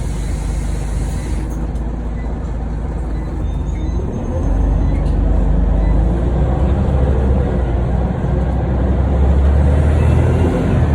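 Scania OmniCity single-deck bus engine heard from inside the saloon, a steady low drone that grows louder about four seconds in as it comes under more load, then eases slightly near the end.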